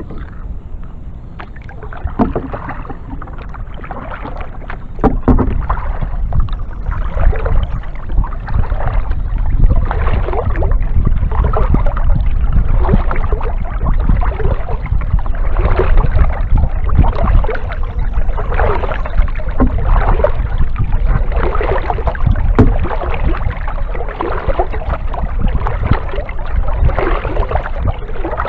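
Kayak paddle strokes dipping and splashing in the water in a steady rhythm, about one stroke a second, over a constant low rumble.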